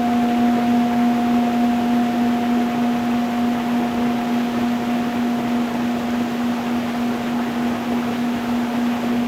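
A singing bowl's low, sustained ringing tone, held steady and wavering slightly near the end, over the continuous rush of a stream flowing over stones.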